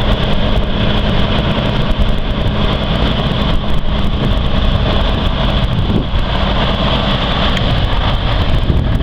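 Cummins N14 Plus inline-six diesel in a 2001 Kenworth semi tractor idling steadily.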